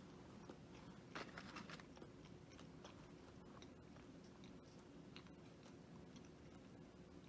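Faint chewing of food by a person eating, with a short run of crunchy bites about a second in and scattered small mouth clicks after, over a faint steady hum.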